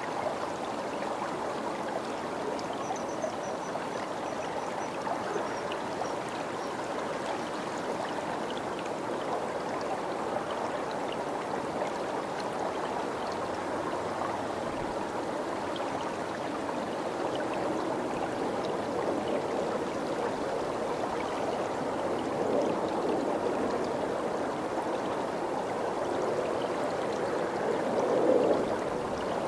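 Water of a stream running steadily, a continuous rushing and trickling.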